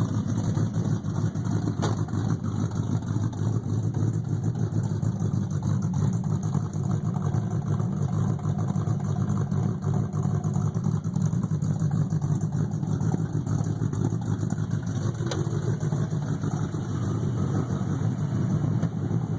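Ford Ranger's 347 stroker small-block V8 idling steadily, still cold from a cold start, exhausting through MagnaFlow mufflers with no tailpipes fitted.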